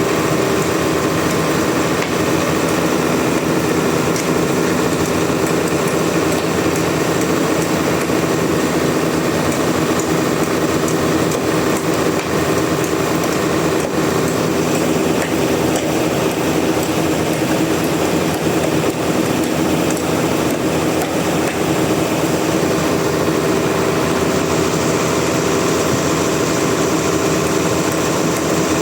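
Sawmill machinery running steadily and loudly, a constant engine-like drone with no break.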